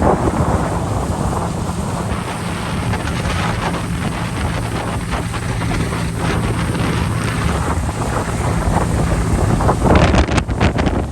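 Speedboat engine running steadily under heavy wind buffeting on the microphone, with water rushing past the hull. A burst of splashes and slaps comes near the end.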